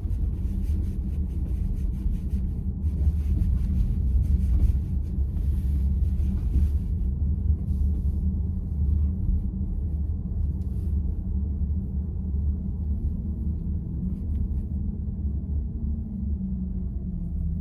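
Steady low rumble of road and tyre noise inside a VW ID.4's cabin while driving.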